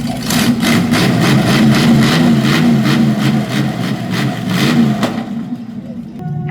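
Large vehicle engine running with a regular pulse about three times a second. It stops about five seconds in.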